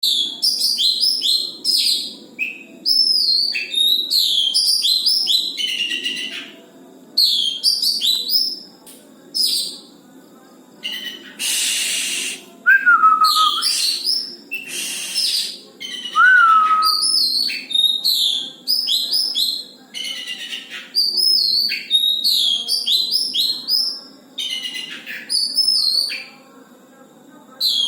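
Oriental magpie-robin (kacer) singing in loud, varied phrases of sweeping whistled notes with short pauses between them. A couple of harsh, rasping notes come near the middle.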